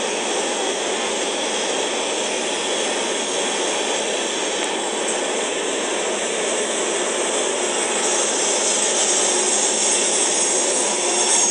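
Freight train of covered hopper cars rolling past: steady noise of steel wheels on rail, growing a little louder about eight seconds in.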